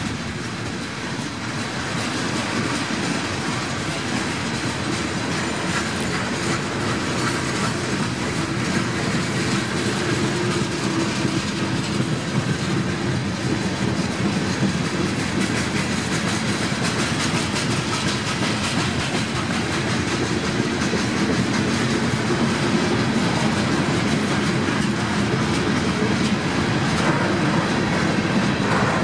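Freight cars (covered hoppers and tank cars) rolling past close by, their steel wheels clicking and clattering over the rail joints in a steady rumble that grows a little louder over the stretch.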